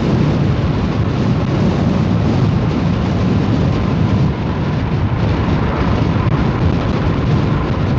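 Steady rush of wind and road noise from a moving vehicle, with a low rumble underneath.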